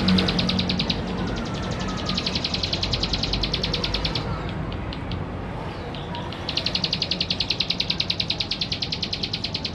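Male plain prinia singing: a fast, even trill of about ten high, buzzy notes a second, given in three bursts with short pauses between.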